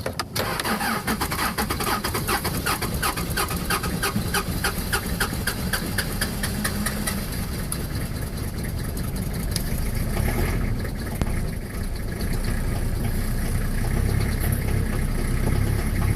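Toyota 2L-II 2.4-litre diesel in a Hiace van starting at −21 °C with only one working glow plug. It catches suddenly and runs rough with rapid, uneven clattering for about ten seconds, a cold-start struggle from the faulty glow plugs. It then settles into a steadier, deeper idle.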